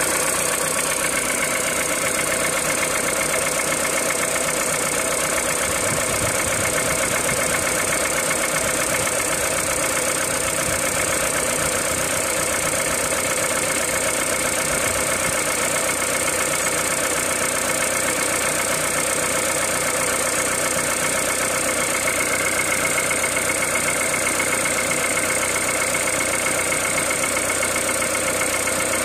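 Peugeot 207 VTi 120's 1.6-litre four-cylinder petrol engine idling from a cold start, running steadily without change.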